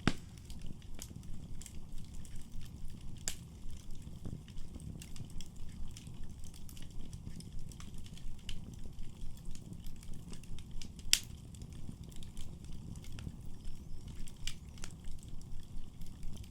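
Wood fire burning in a fireplace: a steady low rumble of flames with frequent sharp crackles and pops, the loudest pops about a second in, a little after three seconds and about eleven seconds in.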